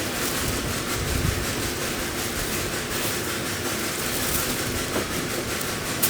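Steady rushing hiss of compressed air and ventilation during spray painting in a paint booth, with a sharp click near the end.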